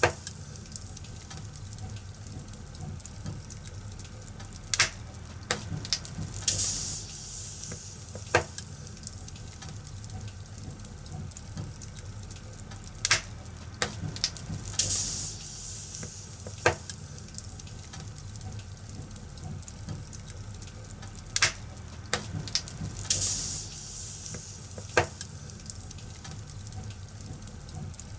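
Fire in a fireplace crackling: a steady low rumble and hiss with sharp pops every few seconds and short bursts of high hiss, the same pattern repeating about every eight seconds.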